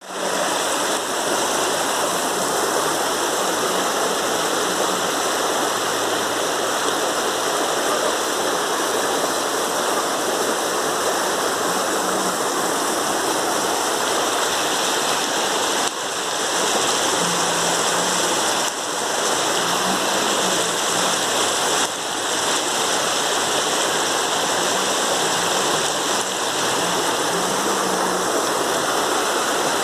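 Rushing water running steadily, consistent with storm runoff or a swollen stream after heavy rain.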